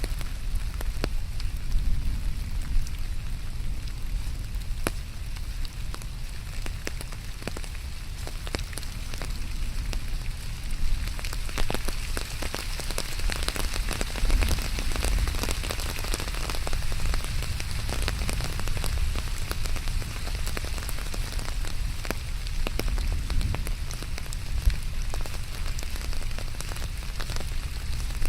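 Steady rain, with many individual drops pattering close by over a low rumble.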